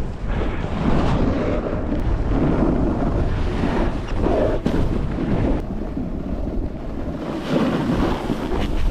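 Wind buffeting the microphone of a camera on a moving snowboarder, over the hiss and scrape of the snowboard sliding on snow, with a couple of short knocks about four and a half and five and a half seconds in.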